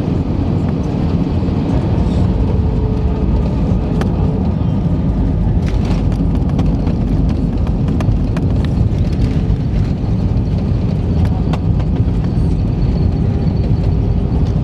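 Inside the cabin of an Airbus A319 during landing: a loud, steady low rumble of the airliner, with scattered rattles and knocks from the cabin.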